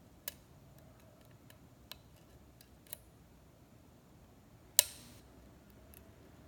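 Lock pick tools clicking against the pins and keyway of a pin-tumbler lock cylinder: a few faint scattered ticks, and one sharp, louder metallic click just under five seconds in.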